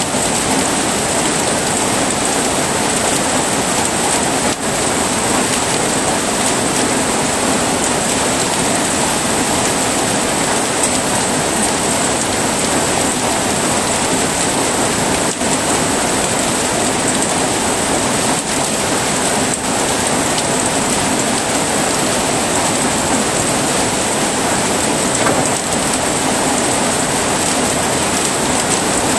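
Heavy rain falling steadily, an even, dense hiss with no breaks.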